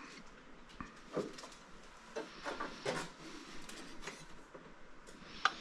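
Parts of a whole-house water filter housing and its fittings being handled and fitted together: scattered light clicks, taps and knocks.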